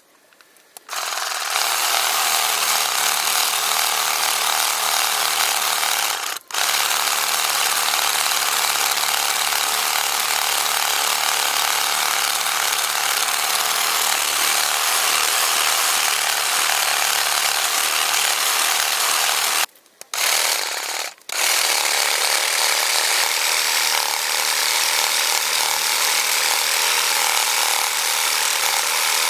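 HYCHIKA electric reciprocating saw cutting through garden tree wood, starting about a second in and running steadily. It stops briefly about six seconds in and for about a second and a half around two-thirds of the way through.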